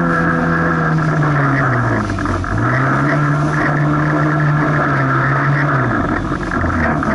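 Jet ski engine running hard over rough water. The revs sag about two seconds in, pick up again straight after, hold, then drop away near the end, with wind and water noise underneath.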